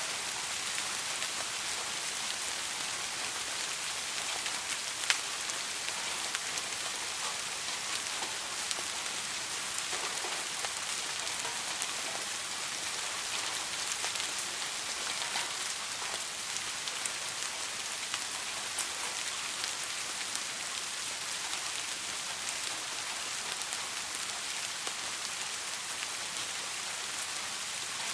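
Steady soft rain falling on a surface: an even hiss full of small drop taps, with one sharper, louder drop about five seconds in.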